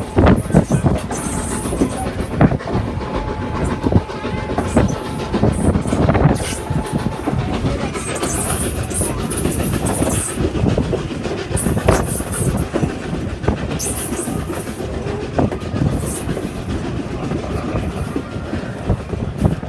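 Passenger train rolling along the track, its wheels clicking over the rail joints, with short high-pitched bursts of squeal or hiss now and then.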